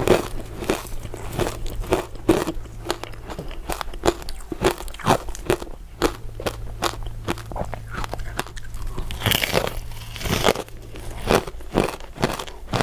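Close-up crunching as a crisp, icy crystal dessert is bitten and chewed: a dense, irregular run of sharp crunches, with a louder cluster of bites about nine to ten seconds in. A faint steady low hum sits underneath.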